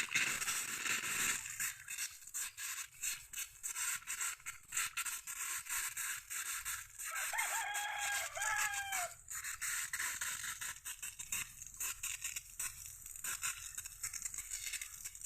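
A rooster crows once, about halfway through. Under it runs a steady stream of short scraping, rattling clicks.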